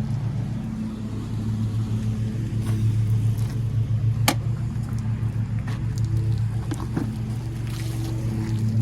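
An engine running steadily with a low, even hum, with a few sharp clicks or knocks over it, the clearest about four seconds in.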